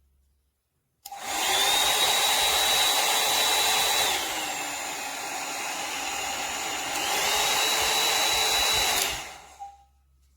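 Hair dryer brush switched on about a second in, running with a high motor whine over rushing air. It drops to a lower speed for about three seconds, the whine falling in pitch, then goes back up to high before being switched off near the end.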